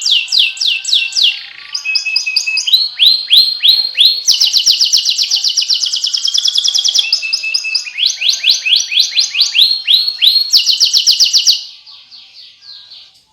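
Domestic canary singing in runs of rapidly repeated falling notes, each run switching speed and pitch from the last. The song trails off near the end.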